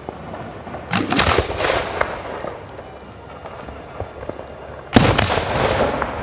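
Aerial fireworks bursting: a cluster of cracks about a second in, a few small pops, then a loud sharp bang about five seconds in followed by a trailing crackle and echo.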